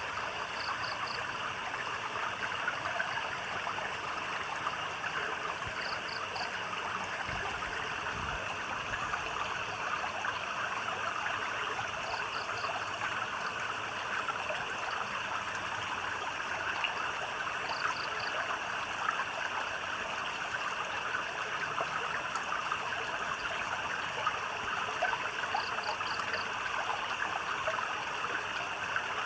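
Steady flowing, trickling stream water. A short high chirp of three or four quick pulses from a night animal repeats about every six seconds over it.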